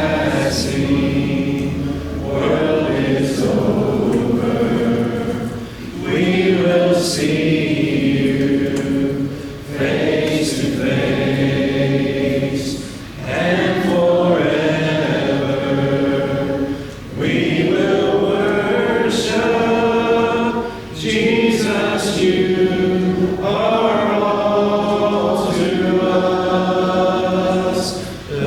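Congregation singing a hymn a cappella, many voices together in phrases of a few seconds with short breaks for breath between them.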